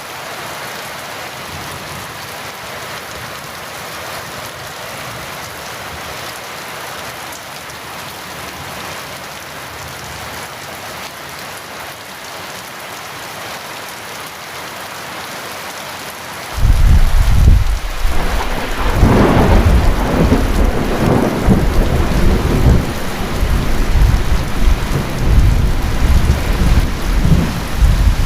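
Heavy rain falling steadily. About two-thirds of the way in, a sudden loud crack of thunder breaks in and keeps rumbling in uneven rolls over the rain.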